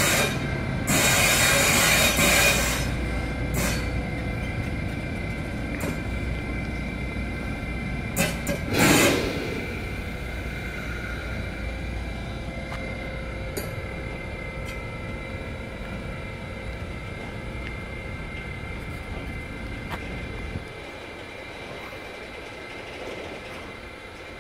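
Coal freight train's wagons rolling slowly past, with a steady wheel squeal of several high tones and scattered clicks. Two louder rushes of noise come about a second in and about eight seconds in, and the low rumble drops away about twenty seconds in.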